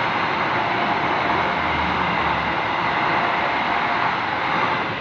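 Passenger train coaches rolling past on the rails, a steady rushing noise of wheels on track, easing off slightly near the end as the last coach goes by.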